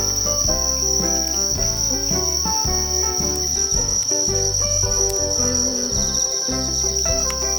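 Crickets trilling steadily in one unbroken high-pitched band, over instrumental background music with a melody of short notes and a bass line.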